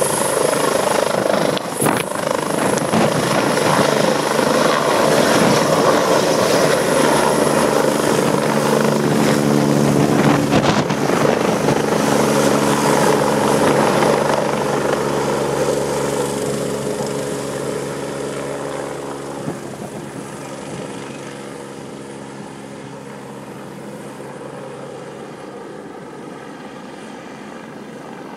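Medical helicopter's rotor and turbine engine running loud and steady as it departs, then fading gradually over the second half as it flies away.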